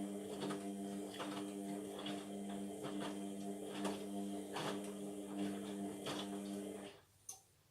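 Indesit washing machine's motor turning the drum during the wash: a steady hum with irregular knocks and swishes from the wet load, cutting off abruptly about seven seconds in as the drum pauses.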